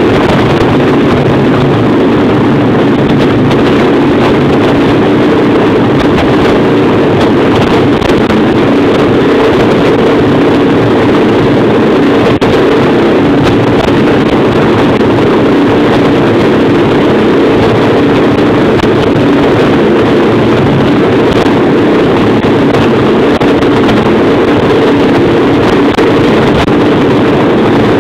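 Motorcycle engine running steadily, loud and close, with no revving up or down.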